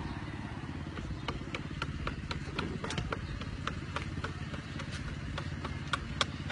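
Car engine running low and idling close by as the car pulls up and stands, a steady low hum. Scattered sharp clicks and ticks come over it, a few a second, from about a second in.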